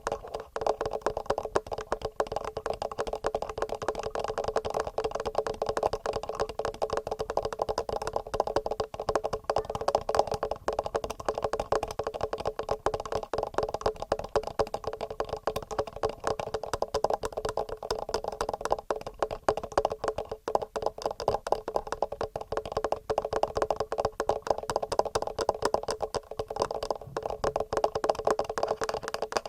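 Fast, continuous fingertip and nail tapping directly on a TASCAM recorder's microphones: a dense, unbroken stream of rapid taps.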